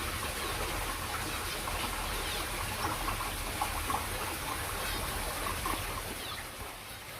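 Small birds chirping in an aviary, many short quick calls over a steady hiss.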